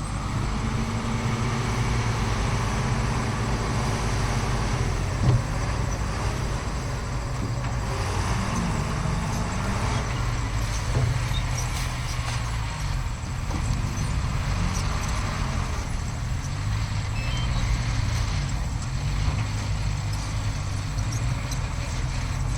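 Diesel engine of heavy earthmoving machinery running, its pitch rising and falling now and then as it works under load, with a brief sharp knock about five seconds in.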